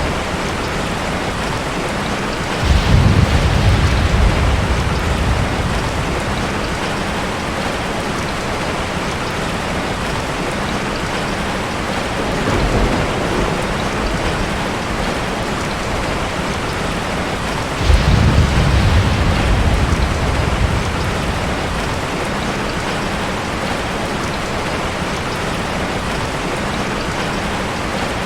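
Heavy rain falling steadily, with two sudden low rolls of thunder, one about three seconds in and one about eighteen seconds in, each dying away over a few seconds, and a fainter rumble in between.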